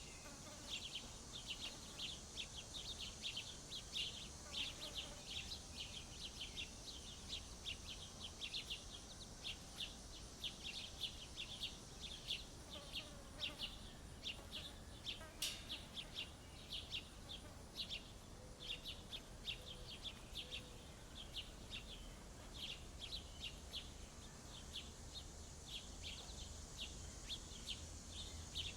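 Small songbirds chirping over and over, several short chirps a second, over a steady high insect drone.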